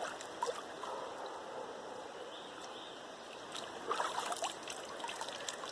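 Steady rush of a flowing river, with scattered short splashes and drips of water, a cluster of them a little past the middle and more near the end, as water is scooped over hair to rinse out shampoo.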